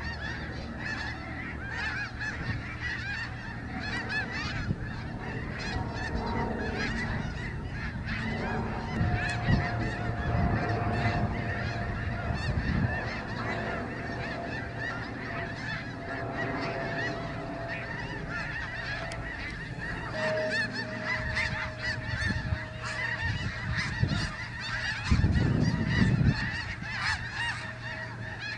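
A large flock of snow geese calling, many honks overlapping into a continuous din, with some low rumbling swells underneath.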